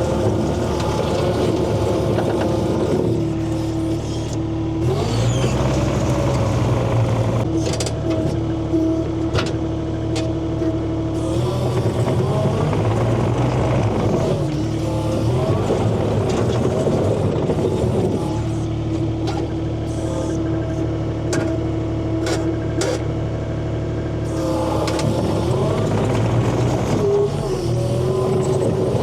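Engine running steadily with a constant whine that dips in pitch and recovers a few times, with scattered light clicks and knocks.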